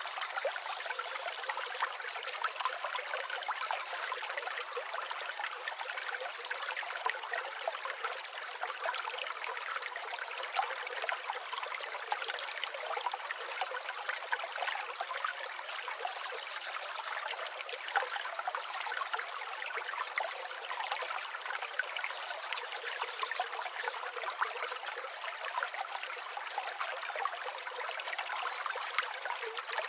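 River water flowing: a steady, even rush with fine splashes and trickles.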